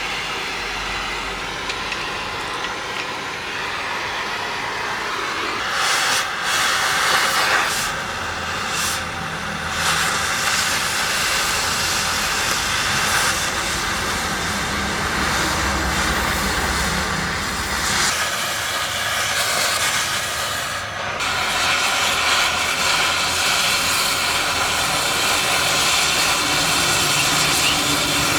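Gas cutting torch flame hissing steadily as it cuts steel, swelling louder for stretches.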